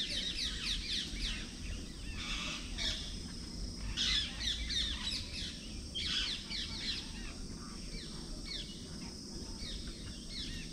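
Rapid high chirping calls, coming in bursts of quick downward-sweeping notes about every two seconds.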